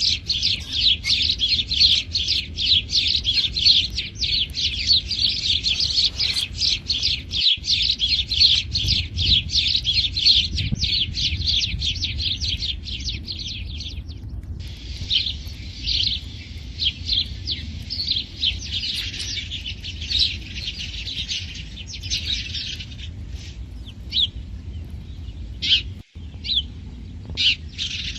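House sparrows chirping: a fast, dense run of short chirps for about the first half, thinning to scattered chirps after that.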